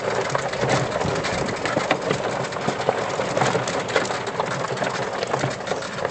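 Electric 1997 EZ-GO golf cart on 22-inch tires driving along a dirt trail: a steady motor and drivetrain hum under constant rattling and crunching from the tires and body.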